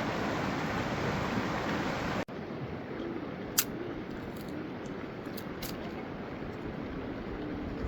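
Steady rush of flowing stream water that cuts off suddenly a little over two seconds in, giving way to a quieter hiss with one sharp click and a few light ticks.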